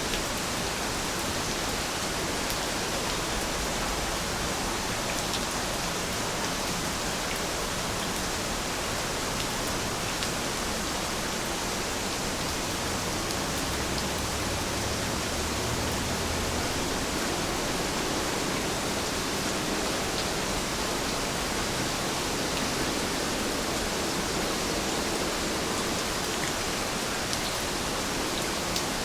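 Heavy rain falling steadily: a dense, even hiss with a few faint sharper drop ticks here and there.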